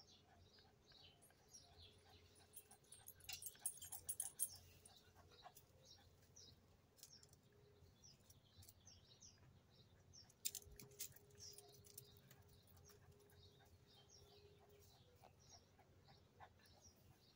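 Small birds chirping in quick repeated notes, with short clusters of clicking, rattling noise about three to four seconds in and again around ten seconds in, the second with a dull thump.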